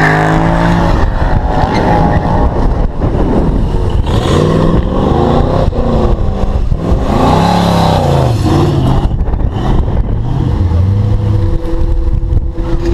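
Car engines revving hard and accelerating away, the pitch climbing and dropping several times, then rising steadily near the end.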